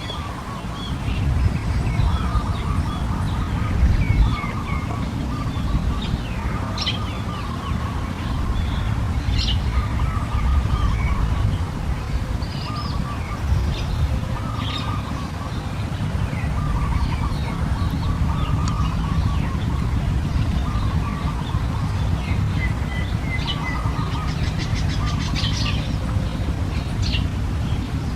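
Small birds chirping, with many short high chirps and repeated warbling phrases, over a steady low rumble.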